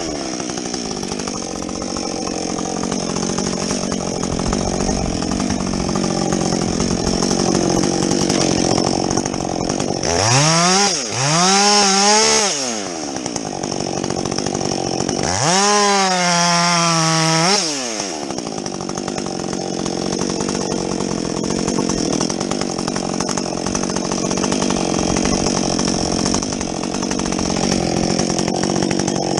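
Husqvarna 562XP two-stroke chainsaw with a modified muffler running at high revs while bucking a log. Twice in the middle the engine note swoops up and down and gets louder as the saw is revved.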